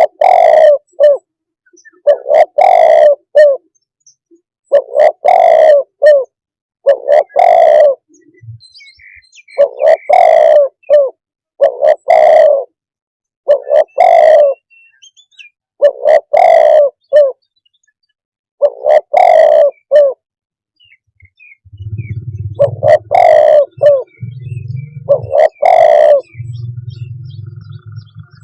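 Spotted dove calling over and over, a phrase of a few short coos about every two to three seconds. A low hum runs under the last several calls.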